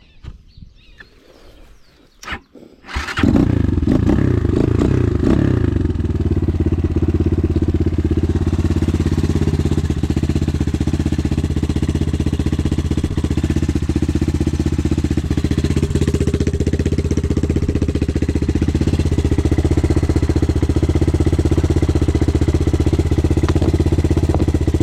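An enduro motorcycle's engine catches about three seconds in, runs a little higher for a couple of seconds, then settles into a steady idle.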